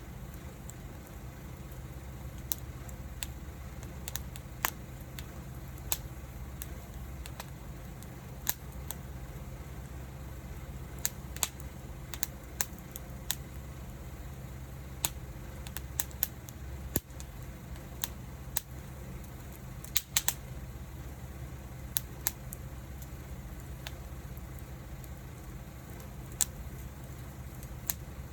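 Wood fire crackling, with sharp irregular pops and snaps, a few of them loud, over a steady low rumble.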